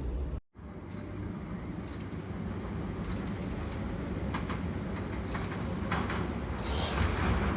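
A New York City Subway L train approaching, its rumble building steadily. Wheel clicks over the rail joints start about two to three seconds in and come faster and louder toward the end. A brief dropout to silence about half a second in marks an edit cut.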